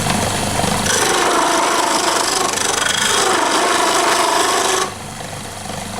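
Wood lathe running with a turning tool cutting into the spinning wooden handle blank, a steady scraping cut over the motor's low hum. The cut stops about five seconds in while the lathe keeps running.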